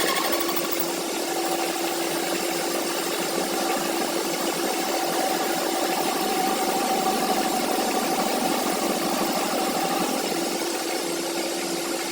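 An engine running steadily at a constant speed after its camshaft gear has been repaired, giving an even mechanical noise with a steady hum.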